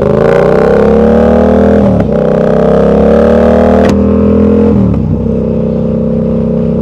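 Sportbike engine through an aftermarket exhaust, accelerating through the gears: the revs climb, dip at an upshift about two seconds in, climb again, and settle after a second shift near five seconds in, with a sharp click shortly before it.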